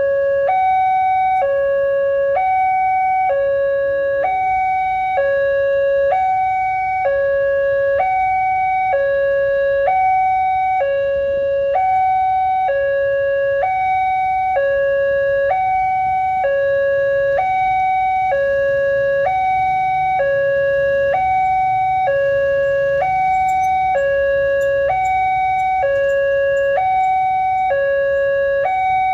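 Electronic warning alarm of an automatic railway level crossing sounding continuously: two tones alternating high and low, each held a little under a second, in a steady repeating pattern.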